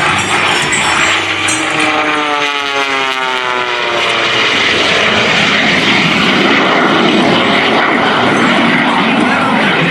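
Jet Waco biplane's 985-cubic-inch radial engine and propeller flying past, the engine tone falling in pitch as it passes about two to four seconds in, then a steady, loud engine rush.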